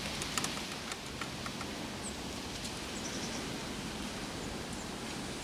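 Steady outdoor hiss with light rustling and a few faint clicks in the first second and a half.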